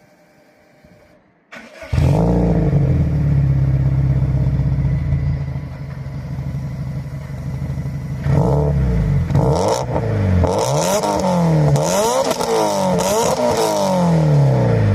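Subaru Impreza WRX STI (GDB) turbocharged flat-four starting up about a second and a half in and idling through an HKS Super full-titanium exhaust with a Tomei front pipe. In the second half it is revved several times, the pitch rising and falling with each blip.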